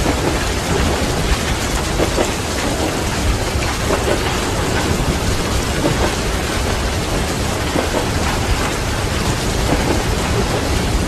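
Steady heavy rain with a continuous low rumble of thunder.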